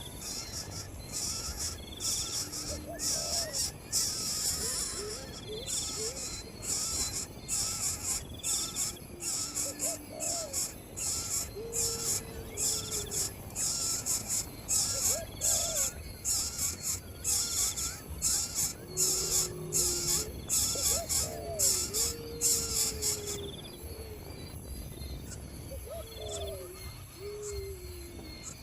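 Insects and birds. High up, insects pulse rapidly until about 24 seconds in, then settle into a steady buzz. Through it, birds give short, low calls that glide in pitch, along with brief higher notes.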